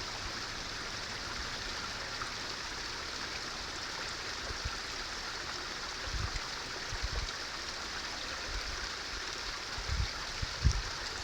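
Waterfall rushing: a steady hiss of falling water, with a few low bumps around the middle and near the end.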